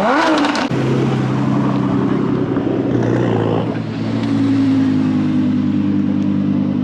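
Modified car engine blipped once, the revs rising and dropping quickly with a few sharp exhaust pops, then running steadily at low revs.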